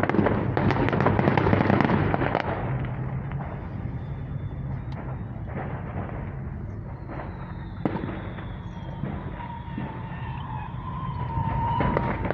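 A burning stockpile of fireworks going off: a dense barrage of crackling pops for the first two or three seconds, then scattered pops with one sharper bang about eight seconds in.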